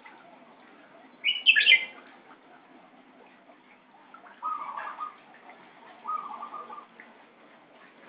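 White-rumped shama calling: a sharp high call about a second in, the loudest sound, then two lower, stuttering calls a second and a half apart.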